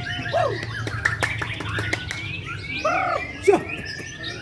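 Several white-rumped shamas (murai batu) singing at once, a dense tangle of overlapping fluty whistles and arching notes at different pitches mixed with rapid sharp ticks, over a low steady hum.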